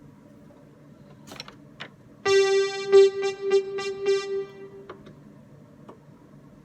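Electronic keyboard playing one mid-pitched note, struck about seven times in quick succession for about two and a half seconds, preceded by a couple of soft clicks.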